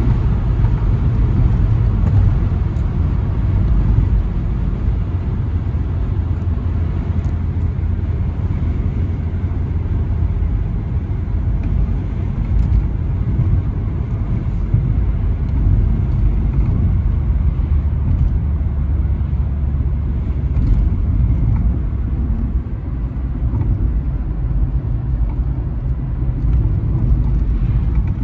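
Toyota Carina E's 1.6-litre 16-valve four-cylinder engine and the car's road noise while driving: a steady low rumble with small rises and dips.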